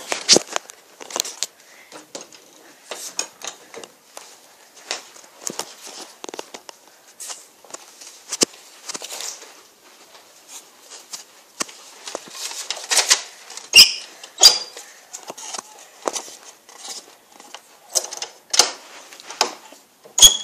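Scattered rustles, taps and knocks from handling and throwing a paper airplane, with a few louder knocks about 13 to 14 seconds in and again just before the end.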